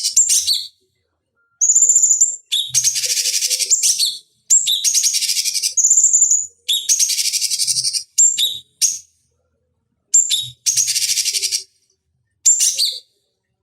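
Cucak cungkok song: repeated phrases, each a clear high whistle run straight into a fast, buzzy, chattering trill about a second long, with short silent gaps between phrases.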